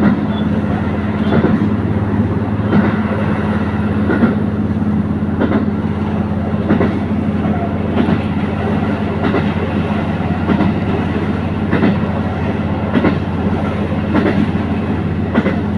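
Diesel railcar running at speed, heard on board: a steady low engine drone, with the wheels clacking over rail joints about once a second, often in pairs.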